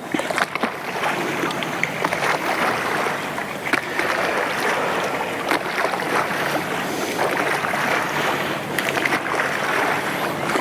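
Steady wind and choppy water splashing against a small fishing boat's hull, with a few faint knocks and clicks scattered through.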